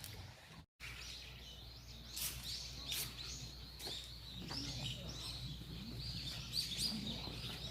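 Small songbirds chirping: many short, high chirps and little trills repeating over a steady low background noise, after a brief break in the sound about a second in.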